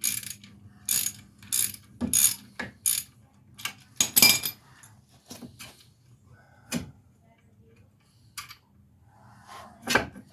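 Irregular sharp metallic clicks and knocks from tools working the old wheel bearing hub assembly loose, about a dozen strikes spaced half a second to a second and a half apart.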